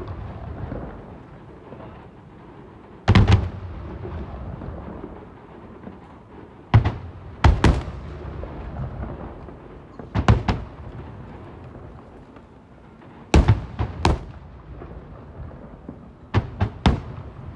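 Aerial fireworks shells bursting: sharp bangs in pairs or threes about every three seconds, each followed by a low rolling echo.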